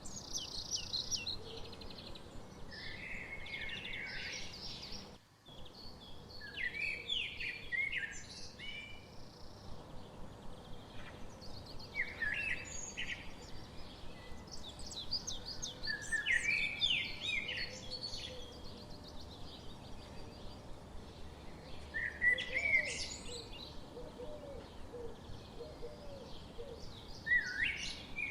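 Songbirds singing and chirping in short repeated phrases over a steady background hiss, with a brief dropout about five seconds in.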